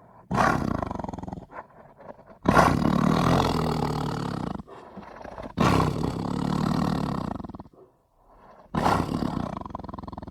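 Smilodon (sabre-toothed cat) sound effect: a run of four big-cat roars, each starting sharply and fading, the second and third lasting about two seconds each.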